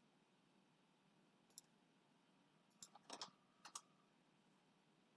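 Faint clicks at a computer over near silence: a single click about a second and a half in, then a quick cluster of about six clicks between three and four seconds in.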